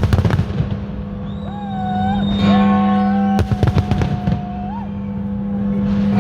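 Fireworks bursting in clusters of rapid cracks, once at the start and again about three and a half seconds in, over music with held synth notes, a few pitch glides and a steady low drone.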